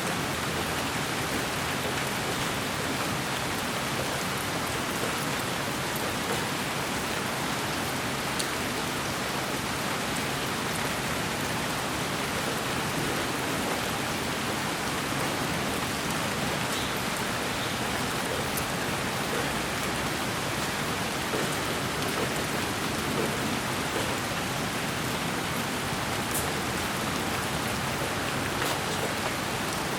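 Steady rain falling on a surface: an even hiss with scattered faint ticks of single drops, unchanging throughout.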